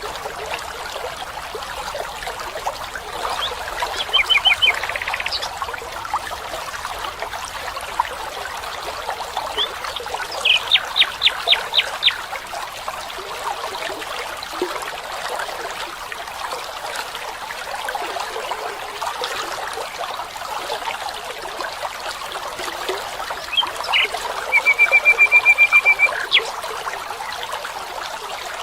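A stream trickling steadily, with a bird calling three times in quick series of repeated notes; the last call, near the end, is a fast even trill.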